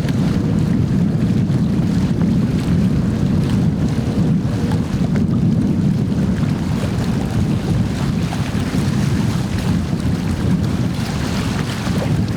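Heavy wind buffeting the microphone, a steady low rumble that covers everything else. A faint steady hum is just audible through it for the first few seconds.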